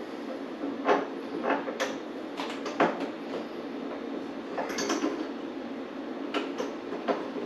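Scattered, irregular clicks and knocks of a metal refrigerator door hinge and its screws being handled, as the hinge is set in its hole and a screw is started.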